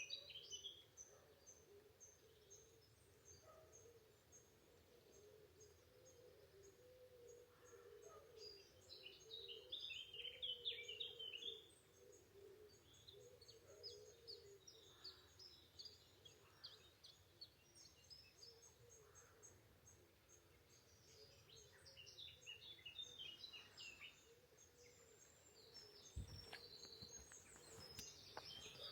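Faint outdoor birdsong: several small birds singing, with a thin high note repeated rapidly and louder bursts of twittering song about eight and twenty-two seconds in. A single low thump near the end.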